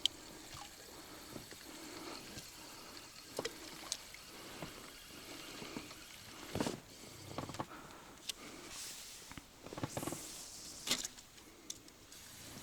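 Quiet river water with a few scattered small splashes and knocks.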